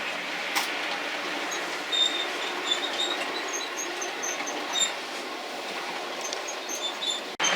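OO scale model locomotive running along the track: a steady rolling noise with many short, high-pitched squeaks from the wheels. The sound drops out sharply for a moment near the end.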